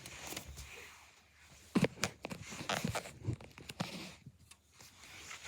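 Scattered light knocks and rustles of handling, with a few sharp taps starting about two seconds in.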